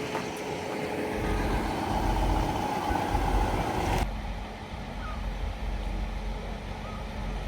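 Steady running rumble of a diesel multiple-unit train, changing abruptly about four seconds in to a duller, quieter sound.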